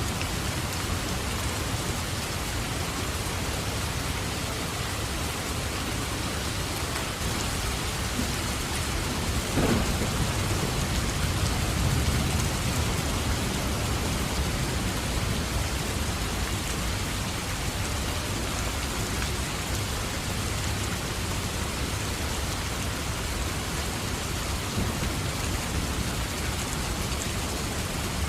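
Steady heavy rain falling, with a thunderclap about ten seconds in that cracks and then rolls on as a low rumble for a few seconds.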